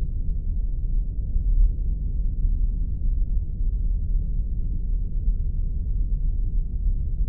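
Spaceship interior ambience sound effect: a steady, deep rumbling drone with no distinct events in it.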